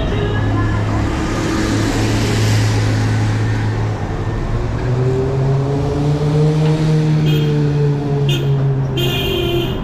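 Motorcycle engine running under way, its note steady and then stepping up in pitch about halfway through as it picks up speed.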